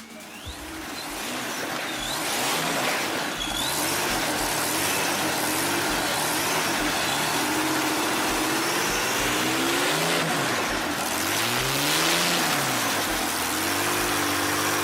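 Vintage light-aircraft piston engine running on a test stand, revved up and down several times, its pitch climbing and falling repeatedly.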